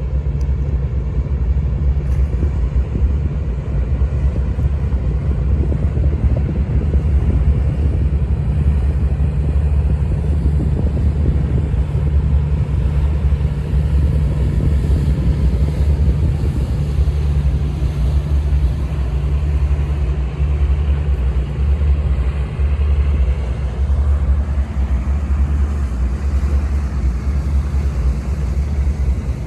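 Squid-fishing boat's diesel engine running steadily under way, a loud, deep, even drone.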